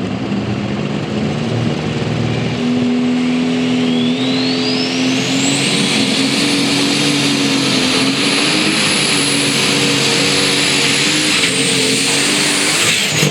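Turbocharged super stock pulling tractor's diesel engine at full power down the track, its turbo whine climbing over a few seconds to a high steady scream over the engine's steady drone. The whine falls away near the end as the engine backs off.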